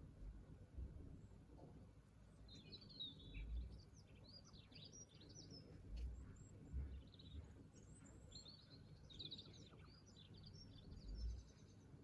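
A small songbird singing faintly in two bursts of quick, high chirping notes, over a low rumble broken by a few soft low thumps.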